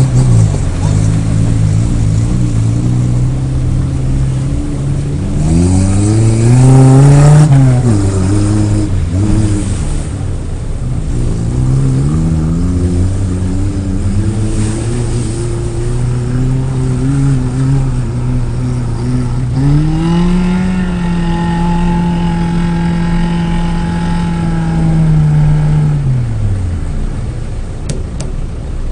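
Off-road vehicle's engine working under load, its revs rising and falling. It revs up sharply about six seconds in, then climbs again near the twenty-second mark, holds high revs for several seconds and falls back to a low rumble.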